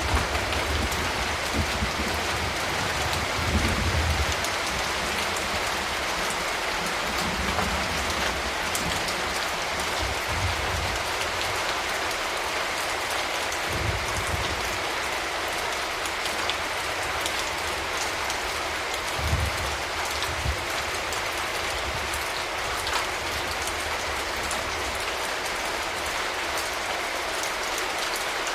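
Steady rain falling, an even hiss with individual drops ticking, broken by a few brief low rumbles.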